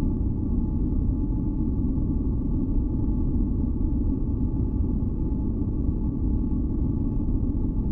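Steady deep masking noise, weighted toward the low end, with faint held tones floating above it; an unbroken ambient noise drone for sleep.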